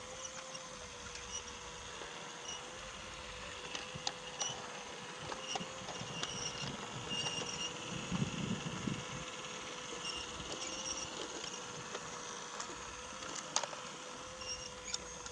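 Brio toy train running on wooden track: the locomotive's small electric motor whines at a steady pitch while its wheels click lightly over the track joints, with a short low rumble about eight seconds in.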